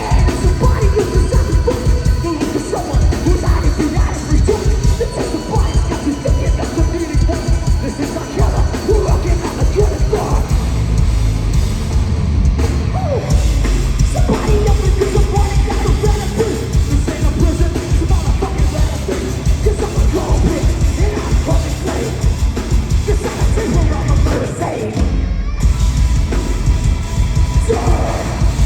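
Metal band playing live at full volume: pounding drums and heavy distorted guitars with yelled vocals. The low end drops out for about a second near the end before the band comes back in.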